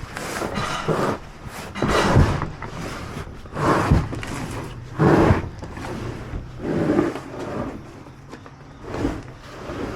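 Boxes and cargo being handled: a string of knocks, scrapes and thumps about every second or two.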